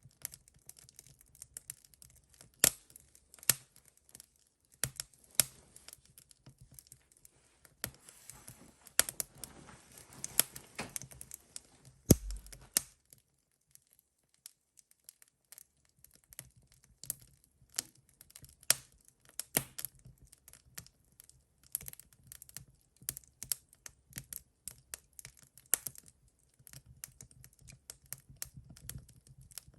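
Wood fire crackling in a fireplace: irregular sharp pops and snaps, with a stretch of soft hissing about a third of the way in that ends in a low thump. A few seconds of near silence follow before the crackling resumes.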